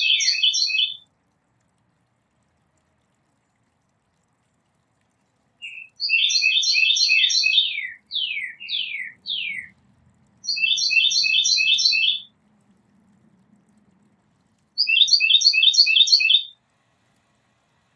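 A songbird singing in bursts of rapid, repeated chirping phrases with a few down-slurred notes, pausing a few seconds between bursts.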